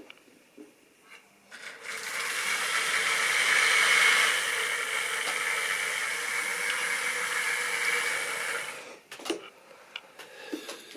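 Model train running on the track: a steady whirring of its small electric motor and wheels on the rails. It starts about a second and a half in, grows louder, and cuts off sharply near the end.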